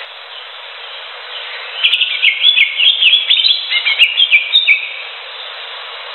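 Green leafbird (cucak hijau) singing a quick run of varied chirps and short whistled notes for about three seconds, starting about two seconds in, over a steady background hiss.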